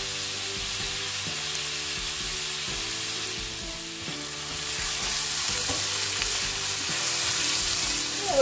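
Diced onions and carrots sizzling in hot oil in a stainless steel wok, stirred with a silicone spatula.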